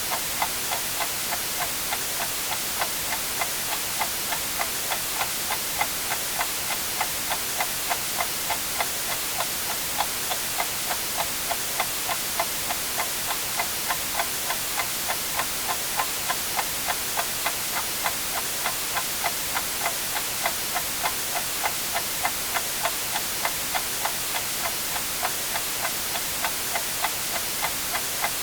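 A clock ticking steadily, about two ticks a second, over a constant white-noise hiss.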